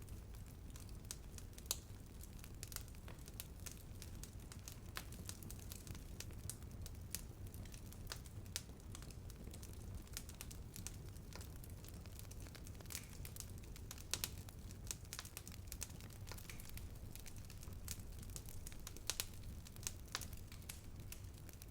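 Wood fire burning, with a steady low rumble and frequent irregular sharp crackles and pops from the burning wood.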